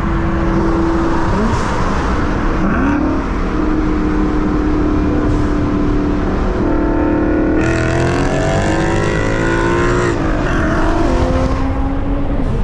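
Car engines running, with one engine revving up: its pitch climbs steadily from about eight seconds in and drops back just after ten seconds.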